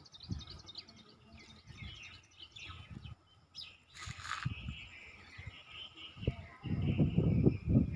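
Small birds chirping in quick repeated notes, then a wavering trill from about halfway through. Low buffeting noise on the microphone comes in near the end and is the loudest sound.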